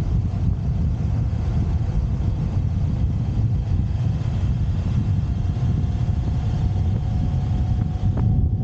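Motorcycle on the move: a steady low rumble of engine and road noise mixed with wind buffeting the microphone. A faint steady whine comes in about halfway through, and there is a brief click near the end.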